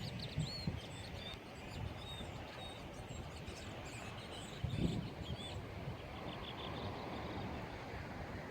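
Small birds chirping and calling over and over, many short rising and falling notes, over a low background rumble, with a soft thump about five seconds in.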